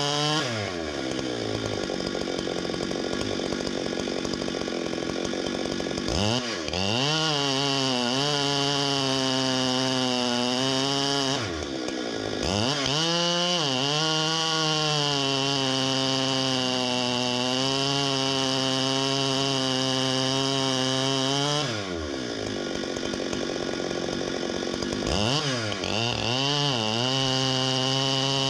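Two-stroke chainsaw run at full throttle in long bursts, its pitch wavering as it cuts. Between bursts it drops back to idle, then is revved up again, three times over.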